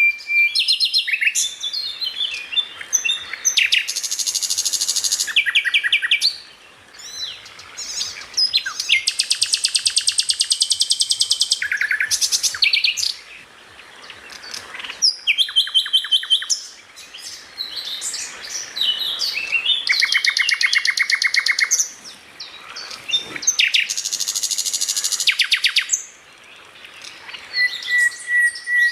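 A songbird singing a loud, varied song: phrases of a few seconds made of fast trills and rapid runs of repeated high notes, with clear whistled notes, separated by short pauses.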